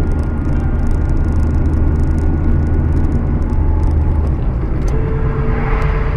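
Car driving, a steady low rumble of engine and road noise. A faint steady tone comes in near the end.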